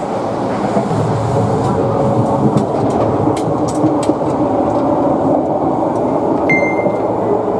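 Steady running rumble of the Kintetsu 16200-series 'Blue Symphony' limited-express train heard from inside the carriage while it is under way, with a few faint clicks. A short high beep sounds about a second before the end.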